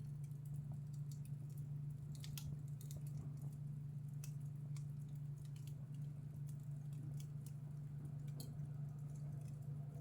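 Wood fire in a fireplace crackling, with irregular sharp pops and snaps, several close together about two seconds in, over a steady low hum.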